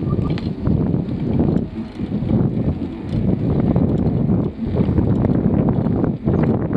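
Wind buffeting the microphone of a camera carried on a moving bicycle, a low rumble that swells and dips, with scattered light ticks and rattles.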